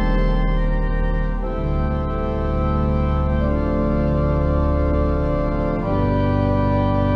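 Organ playing slow, sustained chords over a held bass, moving to a new chord every two seconds or so.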